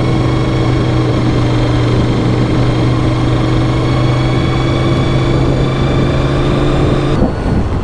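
Honda VFR750's V4 engine running at a steady, even pitch under the rider while cruising. Near the end the note breaks off and changes abruptly as the throttle is changed.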